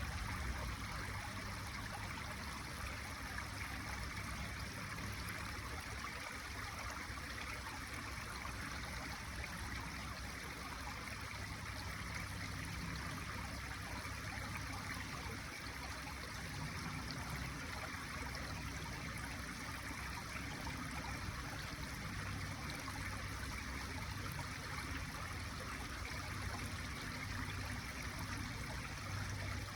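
A small woodland brook babbling and trickling steadily over stones.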